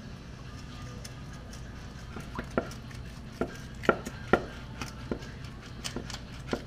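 Scattered metallic clinks and knocks of hand tools and engine parts being handled during a small-block Chevy engine teardown, with a few sharper knocks in the middle of the stretch.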